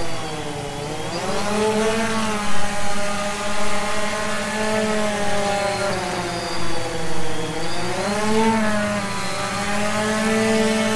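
DJI Phantom 2 quadcopter's motors and propellers buzzing. The pitch drops about a second in and climbs again, then dips and rises once more near the end, as the throttle is eased back and opened for short takeoffs and landings.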